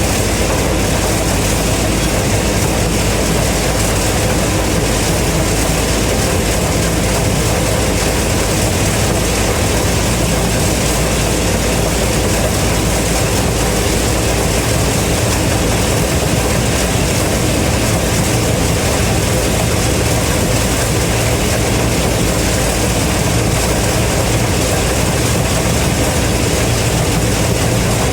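Gleaner M3 combine running steadily while harvesting corn: a loud, even drone of the engine and threshing machinery with a low hum underneath.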